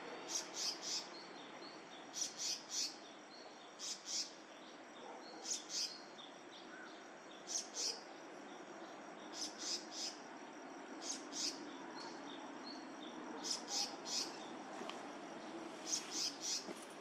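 A small bird calling over and over: short high-pitched chirps in groups of two or three, repeated about every two seconds over steady background noise.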